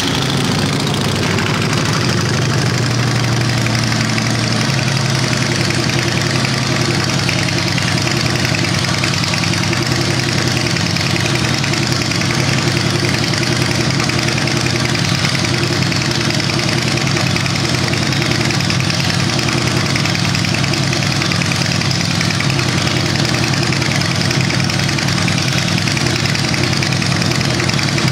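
2015 Harley-Davidson Breakout's V-twin engine idling steadily at an even level, without revving.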